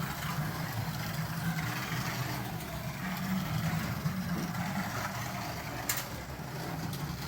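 Carrera Digital 132 slot car running laps on its plastic track: a steady buzz from its small electric motor and gears, with a sharp click about six seconds in.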